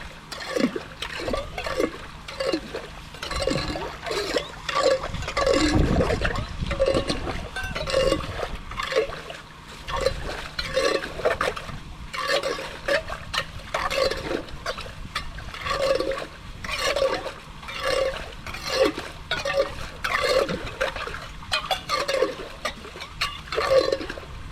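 Draining water gurgling and splashing in quick uneven bursts, about two a second, with a brief low rumble about five seconds in.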